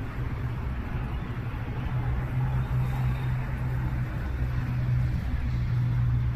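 An engine running steadily with a low hum, a little stronger about two seconds in.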